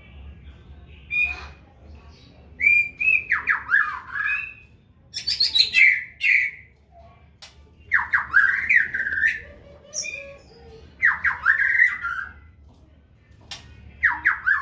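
White-rumped shama giving harsh, scolding squawks in about five bouts, each a quick run of calls sliding down in pitch.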